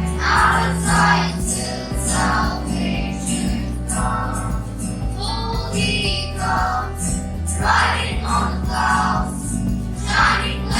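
A group of voices singing a Christian worship song over an instrumental backing with a steady bass.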